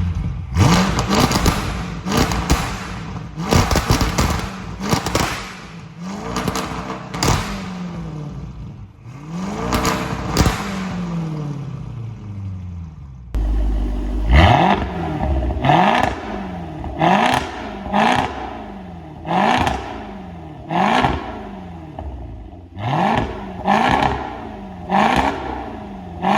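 V8 engine with a tuned aftermarket exhaust being revved in place. In the first half come several longer revs that rise and fall in pitch. About halfway through, the sound cuts to quick, short throttle blips about once a second.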